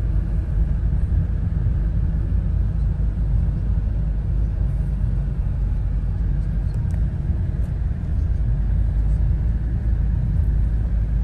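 Steady low rumble of a small car's 1.5-litre engine and road noise, heard from inside the cabin while driving.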